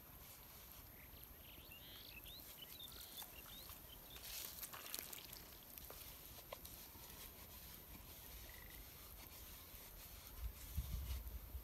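Faint outdoor quiet with a few short bird chirps in the first few seconds, and soft clicks and rustles from hands working at a small plastic cup around the middle. A low rumble comes near the end.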